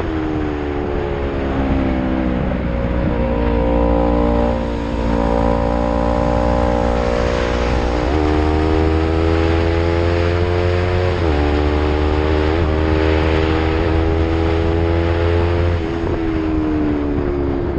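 Yamaha MT-03 with an Arrow aftermarket exhaust, ridden under load. The engine note climbs and falls through the revs, with several sudden pitch changes a few seconds apart as the rider shifts gears. A steady rush of wind noise runs underneath.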